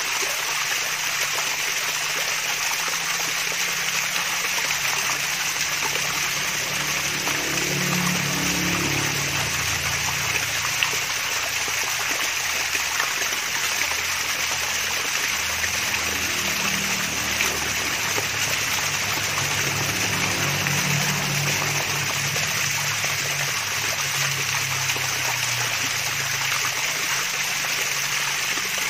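Water splashing and trickling steadily down a small waterfall, with a deeper rumble underneath that swells twice.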